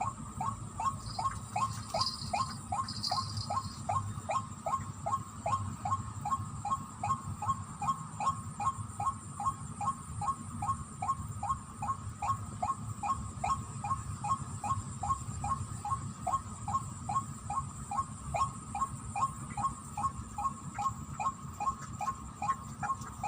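White-breasted waterhen (ruak-ruak) call: one short, falling note repeated steadily, about three times a second, the rhythmic calling used to lure the birds in.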